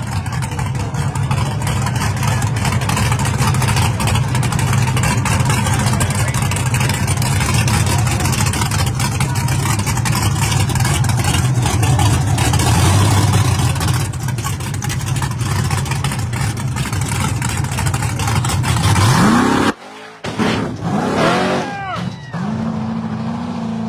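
Drag car engine running loudly at high revs down the strip, its low rumble rising shortly before the sound cuts out suddenly near the end. After that come a few quick rising revs, then a steady engine drone.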